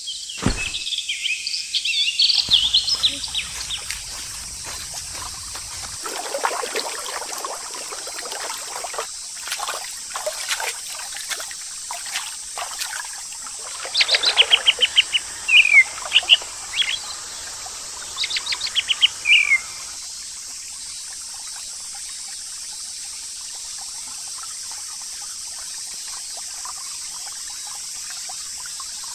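Birds chirping: high chirps at first, then quick runs of notes and short falling whistles, over a steady background hiss.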